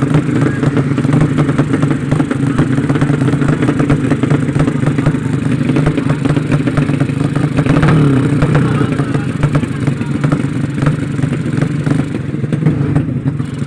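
Motorcycle engines running steadily, with a short rise in engine pitch about eight seconds in.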